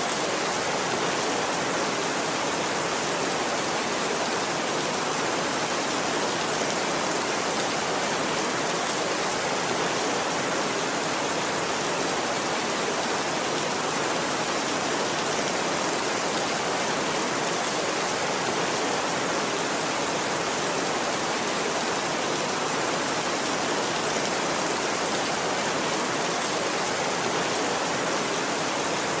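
Steady rain falling, an even, unbroken hiss with no thunder or changes.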